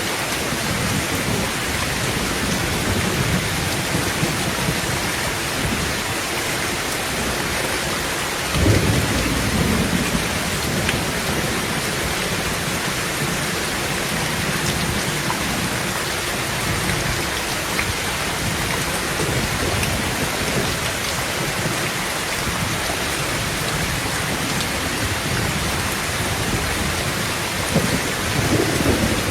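Heavy rain drumming steadily on a tin roof, with thunder rumbling low underneath. A sudden thunderclap breaks about nine seconds in and rolls away over a few seconds, and another rumble swells near the end.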